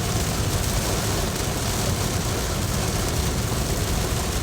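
Steady noise of a car driving through heavy rain, heard from inside the cabin: rain on the car and tyres on the wet road over a low, even rumble.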